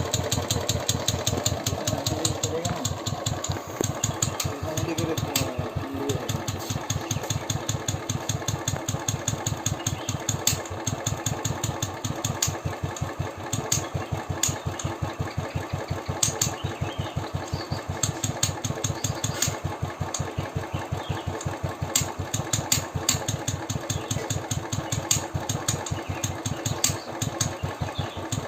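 Royal Enfield single-cylinder engine idling with a steady firing beat, with sharp ticks breaking through every second or two at irregular moments. The owner cannot place the fault and thinks a loose decompressor is the cause.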